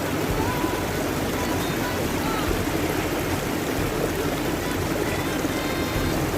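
Clear water running steadily, an even, unbroken rush of flowing water.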